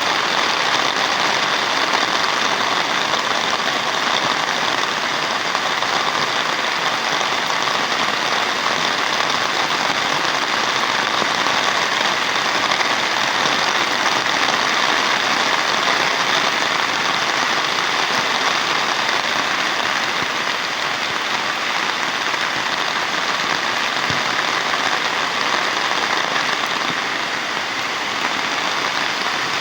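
Heavy rain falling, a loud, steady hiss of downpour.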